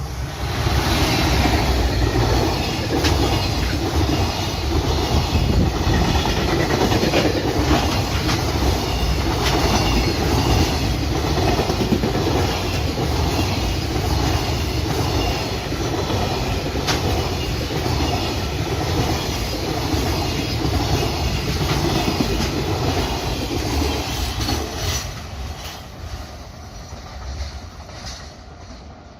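Freight train passing close by, its wagon wheels clattering rhythmically over the rail joints. It comes in suddenly at the start and fades away over the last few seconds.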